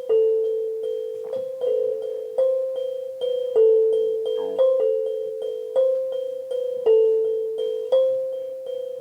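Instrumental music of struck, ringing notes: a gentle repeating figure rocking between two close pitches, about two notes a second, each note fading before the next.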